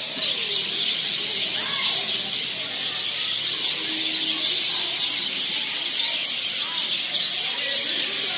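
Many birds chirping at once in a dense, continuous chorus, with a few louder calls rising and falling in pitch above it.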